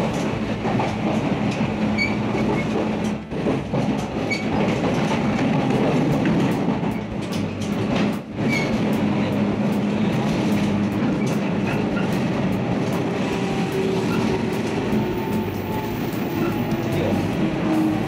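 Electric local train running, heard from inside the carriage: a steady rumble and hum, with the wheels clicking over rail joints now and then.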